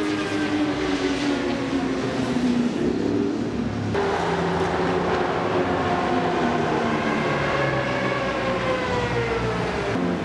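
Engines of vehicles running on a racetrack, several pitched tones sliding down as they pass by and others rising and falling afterwards. The sound changes abruptly about four seconds in.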